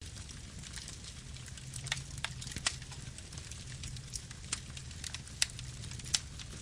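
Wood fire burning: a steady low rumble of flames with irregular sharp crackles and pops of burning wood, the loudest pops about five and six seconds in.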